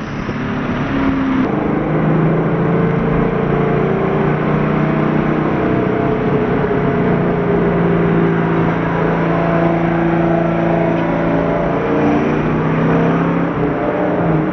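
Twin-turbocharged Chevrolet Camaro SS V8 engine running under load on the road, its pitch climbing slowly over the first few seconds and then holding steady, with a drop in pitch near the end, over steady road noise.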